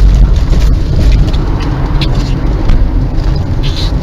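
Car driving at speed: a loud, steady low rumble of engine and road noise.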